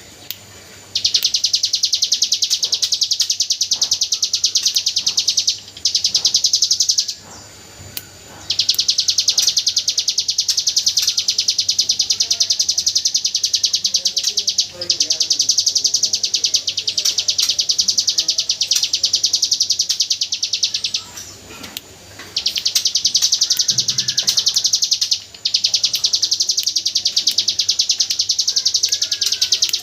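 Ciblek gunung (hill prinia) singing its rapid-fire 'AK47' song: long, very fast trills of high ticking notes, each run lasting several seconds, with short pauses between runs.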